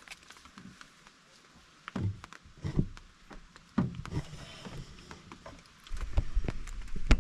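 Scattered light taps and knocks, with a low rumble about six seconds in and a sharp click near the end.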